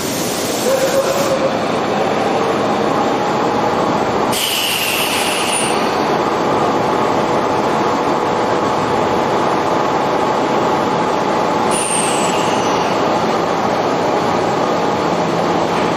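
Tokyo Metro 5000 series electric train running: a steady rumble of wheels and motors with a held whining tone. Short bursts of hiss come at the start, about four seconds in and about twelve seconds in.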